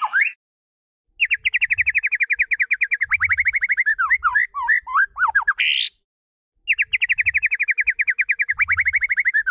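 White-rumped shama song: a fast trill of evenly repeated notes, then slower falling notes ending in a short harsh rasp. After a brief gap the identical phrase starts again, as a looped recording.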